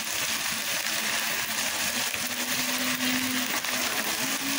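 Onions and spices frying in hot oil in a karai: a steady sizzle.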